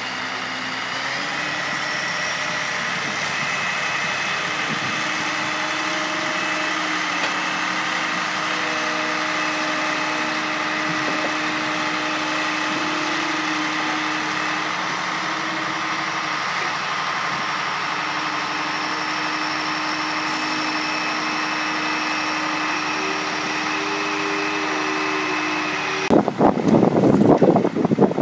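A steady mechanical drone like an engine or machine running, with several held tones over it. About two seconds before the end it gives way to loud, uneven gusts of wind on the microphone.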